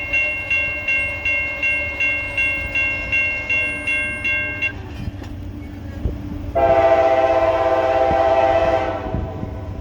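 Grade-crossing bell ringing about twice a second, which stops about halfway through, then one long locomotive horn blast of a bit over two seconds, over a steady low rumble.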